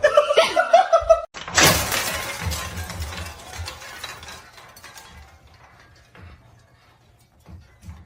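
A sudden loud crash about a second and a half in, like something breaking, with a clattering tail that fades away over a few seconds.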